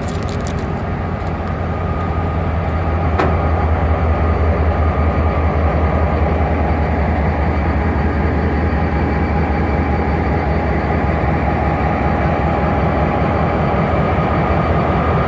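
Passenger train car rolling along the track: a steady rumble of wheels and running gear, with a single sharp click about three seconds in.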